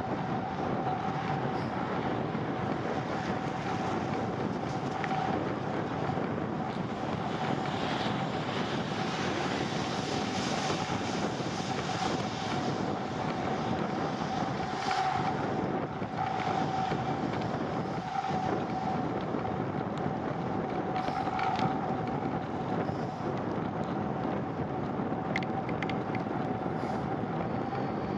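Steady wind and road noise from a bicycle being ridden in the rain, with a steady high-pitched hum throughout and a few faint clicks.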